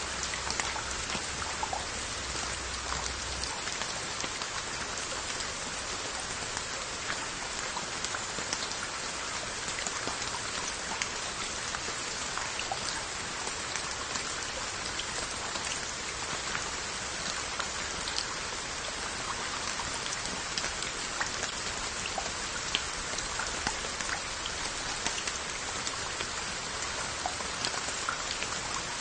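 Steady rain falling on a jangdokdae of Korean onggi earthenware jars and their lids: an even wash of rain with a dense, irregular patter of single drops ticking on the clay.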